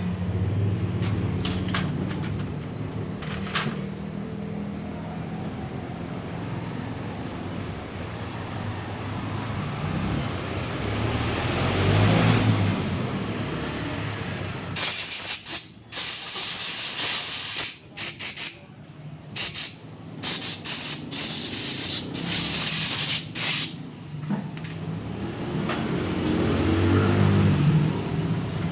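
Small scooter engine running, swelling once around the middle. Then a run of short, sharp hissing bursts of air that start and stop abruptly, before the engine sound returns near the end.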